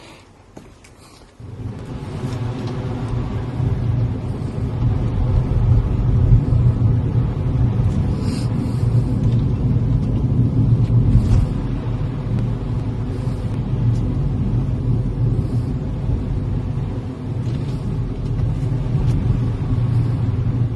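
A car's low, steady rumble that starts abruptly about a second and a half in and runs on loud.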